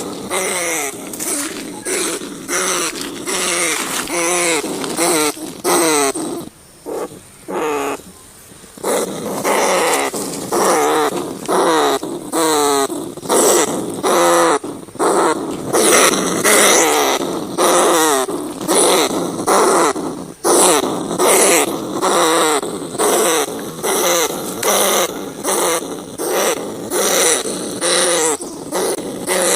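Rats crying: a rapid, continuous run of short, wavering squeals, one call after another, with a brief quieter lull about seven seconds in.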